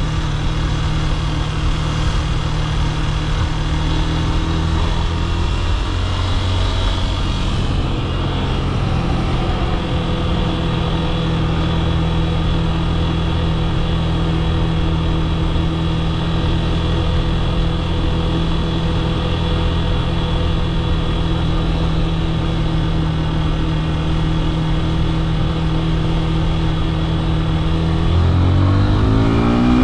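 Yamaha FZ S V3's 150cc single-cylinder engine running steadily for most of the time, its pitch dipping and settling about six seconds in. Near the end the pitch rises as the bike accelerates.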